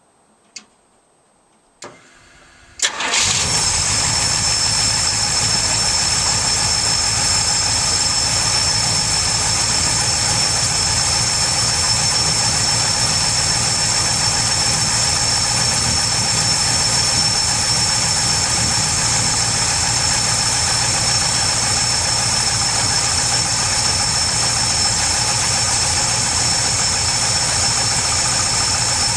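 Pontiac 455 V8 running on E85 through FiTech EFI, cold-started: after two clicks it cranks for under a second, catches about three seconds in and settles into a steady idle. This is a cold start on a freshly raised after-start enrichment setting.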